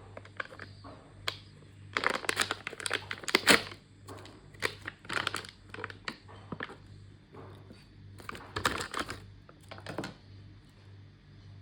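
Plastic ration packaging crinkling and rustling as it is handled, in several bursts with sharp clicks in between. The longest burst is about two seconds in.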